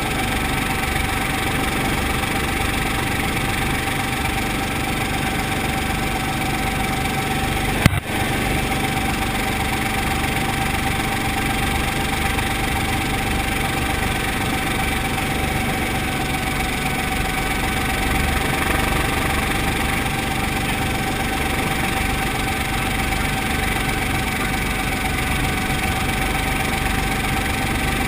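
Brantly B2B helicopter's piston engine and rotor running steadily, with a constant mid-pitched tone over the drone. A single sharp click cuts in about eight seconds in.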